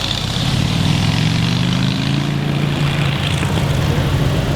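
Car engine running at low revs: a steady low drone that climbs slightly about a second in, then holds.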